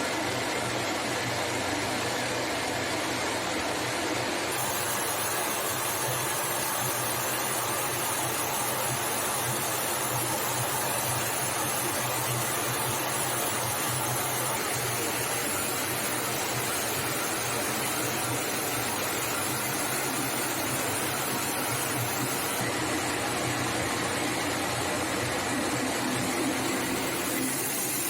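Steady, even rushing noise of jet aircraft in flight, with no pitch changes.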